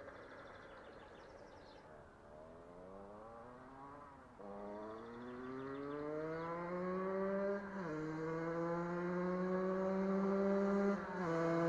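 Husqvarna SM 125 two-stroke single-cylinder engine slowing at first, then accelerating hard through the gears. The pitch climbs and drops suddenly at each of three upshifts, and the sound grows steadily louder.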